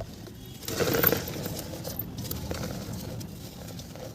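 Mud being crumbled and crushed, with a louder crunching burst about a second in, then softer, steady crumbling with small clicks.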